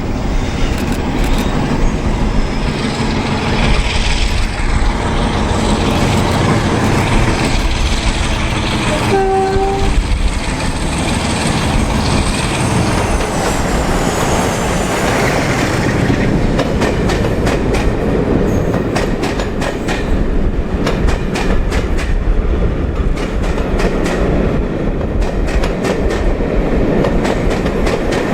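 A pair of Class 47 diesel locomotives running through with their train, a steady heavy rumble with wheels clattering over the rails. About nine seconds in, the horn sounds a short two-tone, high note then low.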